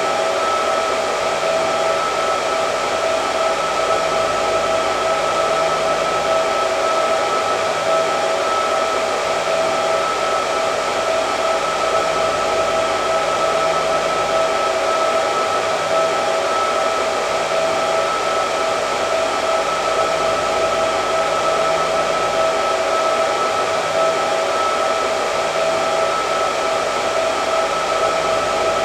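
Hair dryer running continuously: a steady rush of air with a constant high motor whine.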